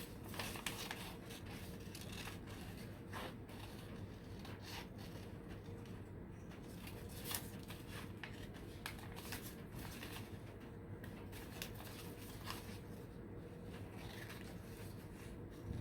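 Scissors snipping through paper in short, irregular cuts, with faint paper rustling.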